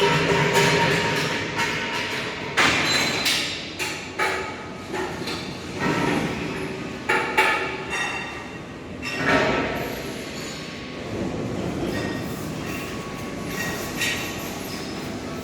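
PET bottle recycling and washing line machinery running, a steady mechanical din with irregular clattering knocks and bangs of plastic bottles or flakes being moved through the equipment.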